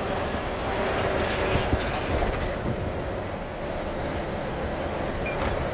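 Truck running in slow traffic, heard from inside the cab: a steady low rumble of engine and road noise with a few light rattles.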